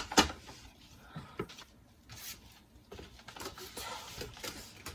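Small household handling noises: a sharp click just after the start, then soft rustling.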